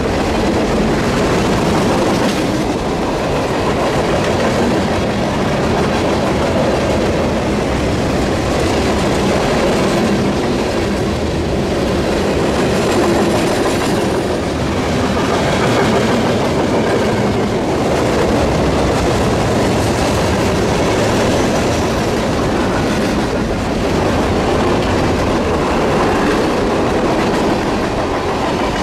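Freight cars of a CSX mixed freight train rolling past at speed: a steady, loud noise of steel wheels on rail.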